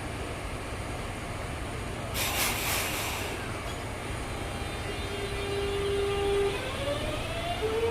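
Electric train at a station platform over a steady low rumble. About two seconds in there is a hiss lasting about a second. Later the traction motors start a steady whine, which then rises in pitch as the train pulls away.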